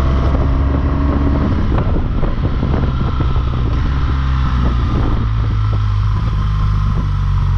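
BMW R1200GS flat-twin (boxer) engine pulling the motorcycle up a hairpin switchback, its note shifting about halfway through as the throttle and clutch are worked. Wind rushes over the onboard microphone throughout.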